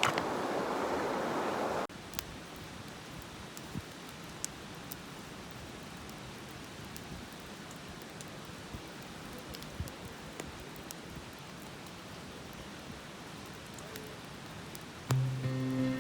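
Open wood campfire burning, a quiet steady hiss with scattered sharp crackles and pops. A louder rushing noise stops abruptly about two seconds in, and soft music comes in near the end.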